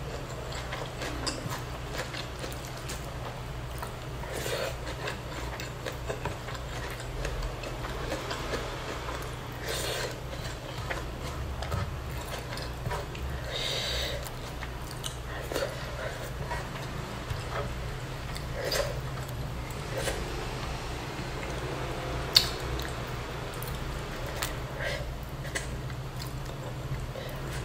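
Close-miked eating sounds: soft chewing and mouth clicks as the last scraps of rice and duck are eaten, with fingertips picking crumbs off a wooden board. Scattered small clicks throughout, one sharper one about three-quarters of the way through, over a steady low hum.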